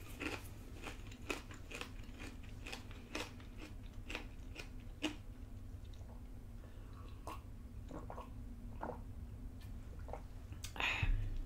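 Close-miked eating: a person chewing with many crisp mouth clicks and crunches, thinning out as she drinks from a glass and swallows. A brief louder sound comes near the end.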